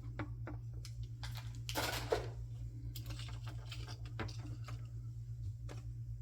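Packaging being handled by hand during a blind-box unboxing: scattered small clicks and crinkles, with a louder rustle about two seconds in, over a steady low hum.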